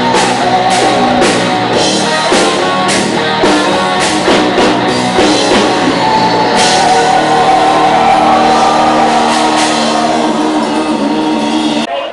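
Rock band playing live: drum kit, guitar and vocals. There are steady drum strikes over the first half, then held chords. The music cuts off abruptly at the very end.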